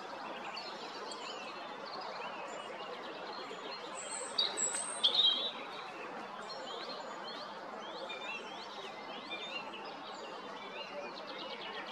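European robin singing: a run of thin, high, quickly changing warbled phrases, a little louder about four to five seconds in, over a steady background rush.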